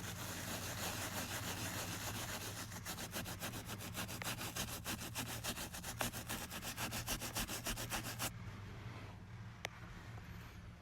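Cloth rubbing on a fabric truck seat, scrubbing a stain worked with vinegar: a steady rasp that turns into quick, regular back-and-forth strokes from about three seconds in, then stops about eight seconds in. A steady low hum runs underneath.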